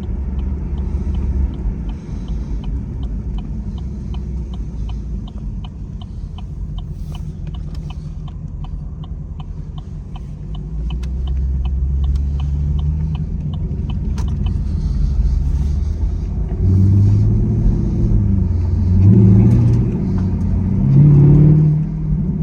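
V8 car engine idling with a rumble and a light, fast ticking over it, then revved a few times near the end, the pitch rising and falling with each blip.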